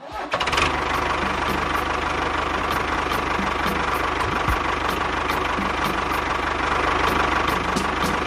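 Small engine running steadily at idle, with a fast, even knock.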